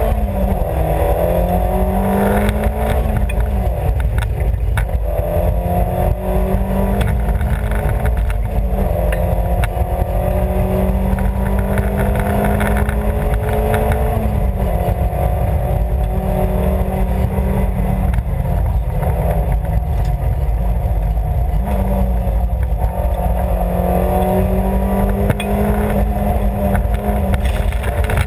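Rally car's engine heard from inside the cabin, driven hard: its pitch climbs through each gear and drops back at the gear changes several times, over a constant rumble of road and mechanical noise.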